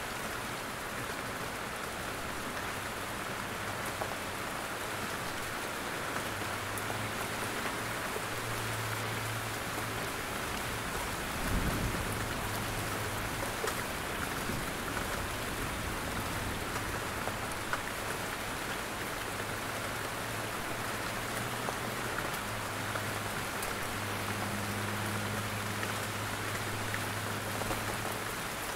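Steady rain falling in a forest, drops pattering down from the trees. A brief low rumble comes near the middle, and a faint low drone sits under the rain for much of the time.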